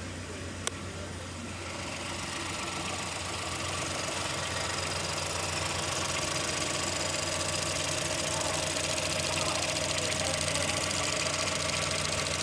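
Ford Focus engine running steadily, with a single sharp click under a second in; it grows louder and brighter over the first few seconds, then holds steady.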